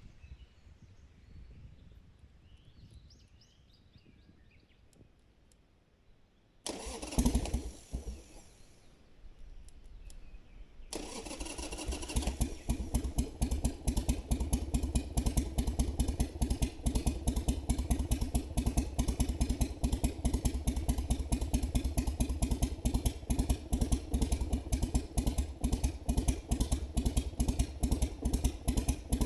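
Harley-Davidson Sportster's air-cooled V-twin being started: after a quiet stretch the starter cranks with a sudden loud burst about a quarter of the way in. The engine catches a few seconds later and settles into a steady idle of rapid, even exhaust pulses.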